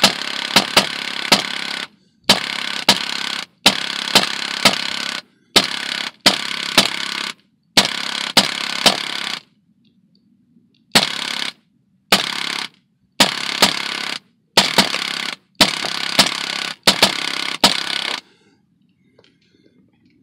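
Baikal MP-661K Drozd air gun firing in bursts: about eleven bursts, each a second or two of steady hiss with several sharp cracks in it, separated by short pauses. The firing stops about 18 seconds in.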